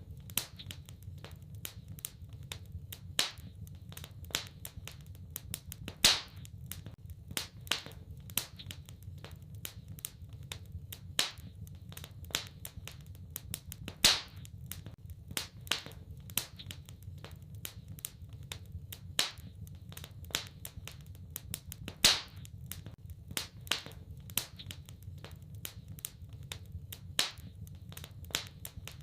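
Wood fire crackling in a fireplace: a steady stream of small irregular snaps and clicks over a low rumble, with a louder pop about every eight seconds.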